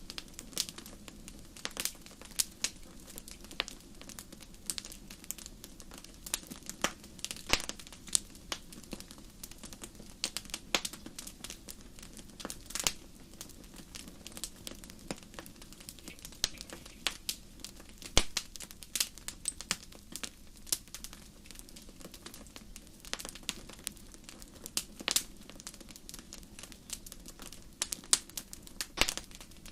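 Fire in a fireplace crackling, with irregular sharp pops and snaps, several a second at times, over a faint steady low background.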